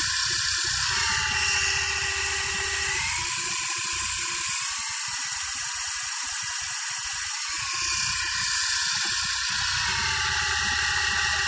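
Small electric motors and coaxial rotors of a 3-channel toy RC helicopter whirring steadily, the whine gliding up and down in pitch a few times as the two rotors change speed to turn the helicopter left and right.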